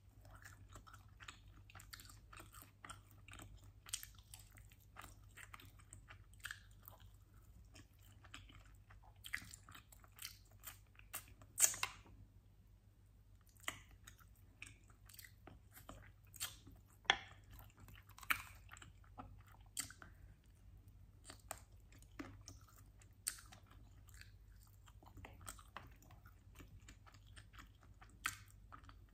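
Chewing and biting on chicken wings: irregular wet clicks and crunches as meat is nibbled off the bones, with a few louder crunches.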